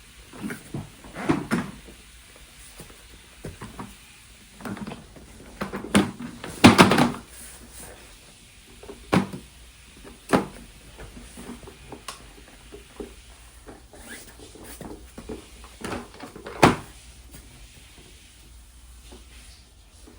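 Toy cars knocking and clattering as a toddler handles them and bangs them on a hard surface: a scattering of separate knocks, the loudest a cluster about six to seven seconds in and a sharp one near the end.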